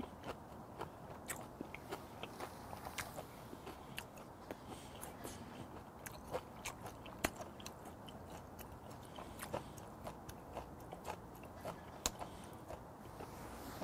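A person chewing a mouthful of food with the mouth closed, close to a clip-on microphone: irregular small wet clicks and crunches, a few each second.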